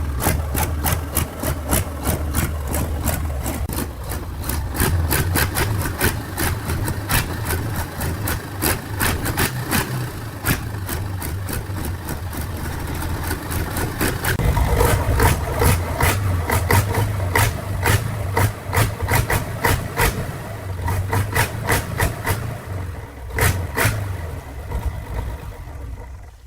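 Engine of the restored machine running steadily at idle, a low hum with many sharp ticks or knocks over it several times a second. It fades out at the end.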